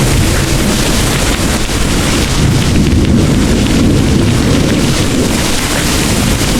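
Heavy rain pouring steadily, with the deep low rumble of distant rolling thunder under it.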